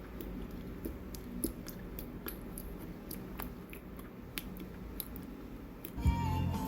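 Close chewing with irregular sharp crunchy clicks, a few a second. Music comes in near the end.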